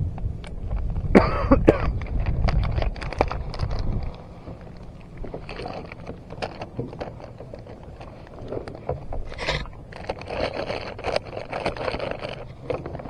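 Small clicks, knocks and scrapes of gear being handled in a kayak, with a low rumble under them for about the first four seconds.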